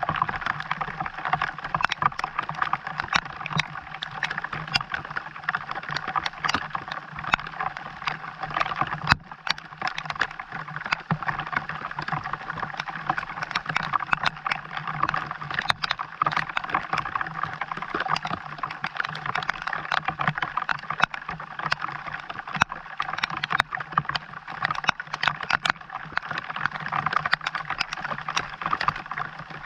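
Rain falling steadily, a continuous hiss made of many separate small drop hits.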